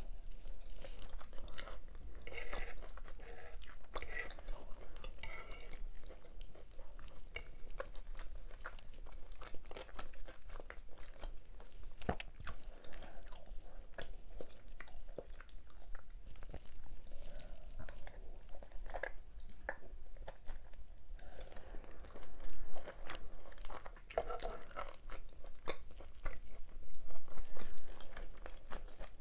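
Close-miked chewing and wet mouth sounds of a person eating beef Alfredo pasta and cheese buns, with many short crunchy clicks and smacks. It grows louder twice near the end.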